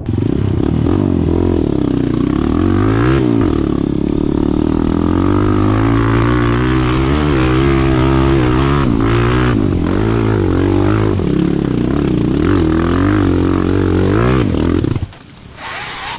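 Off-road vehicle's engine revving hard under load, its pitch rising and falling repeatedly, then stopping suddenly near the end.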